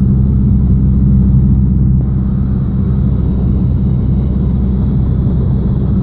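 Cessna 172's piston engine and propeller droning steadily in flight, heard inside the cockpit.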